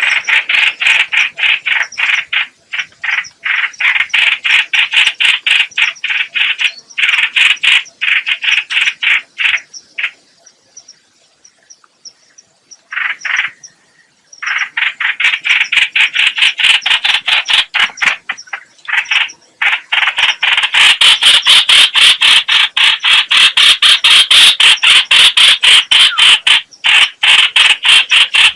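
Call of the bird known in Vietnam as trao trảo (chao chảo, hoành hoạch): long runs of rapid, harsh rasping notes, several a second. The calling breaks off for a few seconds near the middle and is loudest in the last third.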